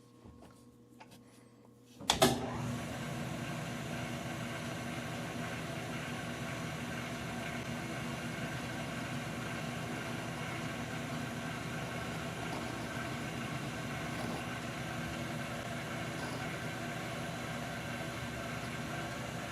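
Metal lathe started about two seconds in with a sharp clunk, then running steadily with an even mechanical hum.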